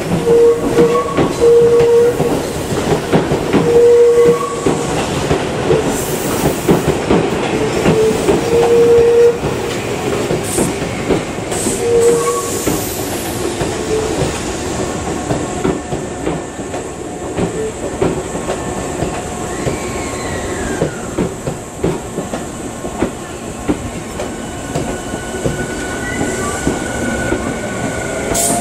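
Tobu 10050-type electric train pulling away, its wheels clattering over the rail joints and points, with a tone that cuts in and out. The clatter is loud for the first nine seconds or so, then drops to a quieter, steady running sound as the train recedes.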